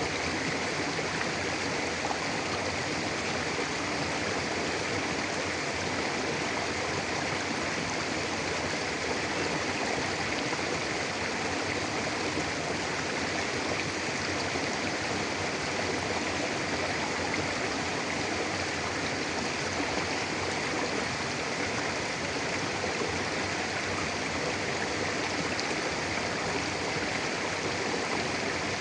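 Mountain river flowing steadily over rocks: a constant, even rush of water.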